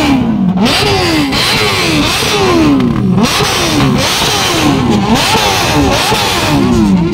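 Sport motorcycle engines being revved again and again, several throttle blips a second with the pitch falling after each one, overlapping as more than one bike revs at once.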